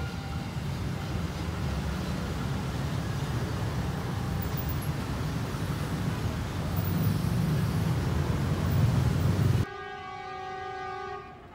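Train passing close by: a heavy low rumble with wheel and track noise, growing louder. Near the end it cuts off abruptly and a train horn sounds a held, several-tone chord for about a second and a half.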